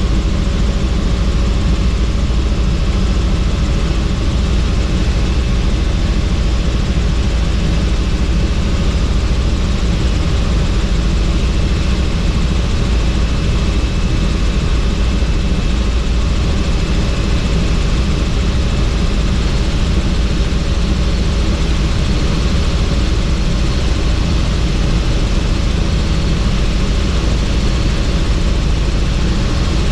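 Helicopter in flight, heard from on board: a loud, steady, unchanging rumble of rotor and engine.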